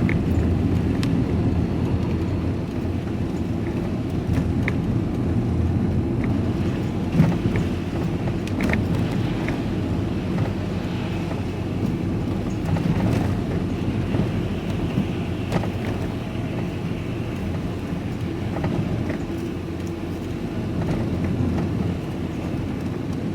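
Steady low engine and road noise of a lorry heard from inside the cab while driving, with a few light clicks.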